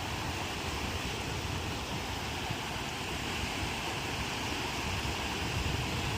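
Sea surf washing ashore in a steady rush, with wind buffeting the microphone in a low rumble.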